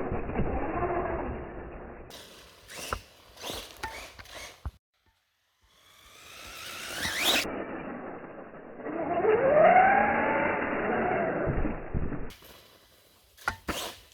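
Electric motor of a 1/10 Redcat Volcano RC truck on a 4S system, whining as it speeds up and slows down, the pitch rising and falling. It runs twice, with scattered sharp clicks and knocks in between and near the end.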